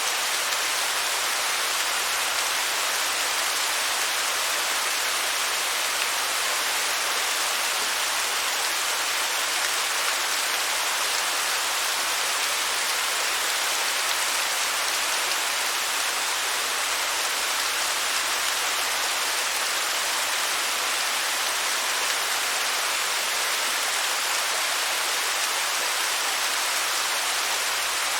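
Falling water of a waterfall rushing steadily: an even hiss that is strongest in the upper range, with little low rumble and no breaks.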